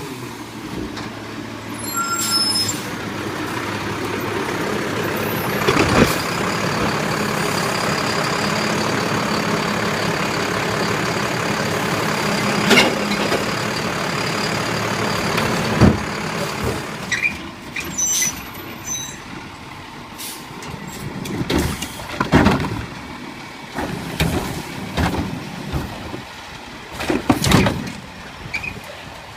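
Garbage truck at work: its engine runs high and steady with a hiss while the hydraulics operate, broken by a few sharp metal clanks. After about halfway it drops quieter, with a run of separate knocks and bangs.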